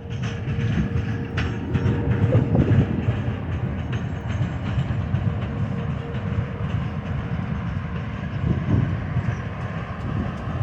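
Train rolling past with a steady low rumble of wheels on rail, its wheels clicking over rail joints. A faint steady whine is heard over the first few seconds.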